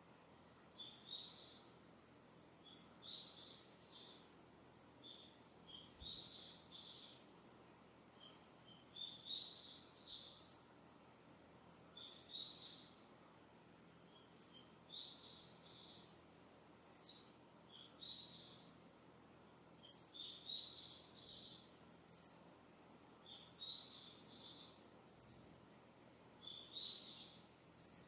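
Songbirds singing at a distance: short, high twittering phrases repeated every second or two, some ending in a sharp high note, over a faint steady hiss of breeze.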